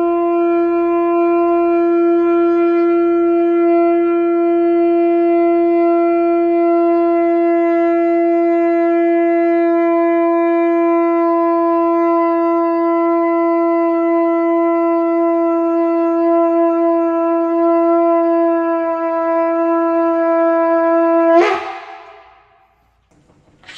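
Shofar blown in one long, steady held note for about twenty seconds. The note ends with a short upward break and cuts off. After about two seconds of quiet, another blast begins right at the end.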